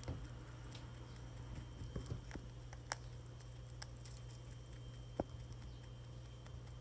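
Pet rabbit moving about, a few scattered light taps and knocks from its feet on a hard surface, over a steady low hum.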